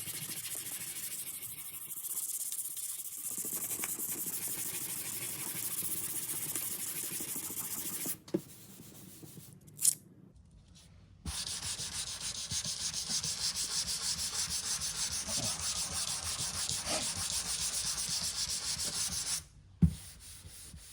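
Hand sanding of a repaired area on an aluminium car body panel, a steady abrasive hiss of rapid back-and-forth strokes, smoothing the filler until it blends in. The sanding breaks off for a couple of seconds about eight seconds in, with two short knocks, then resumes and stops suddenly with a knock near the end.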